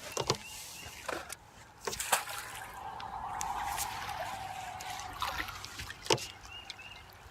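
Water splashing and sloshing with several sharp knocks, as a hooked bass is fought at the boat.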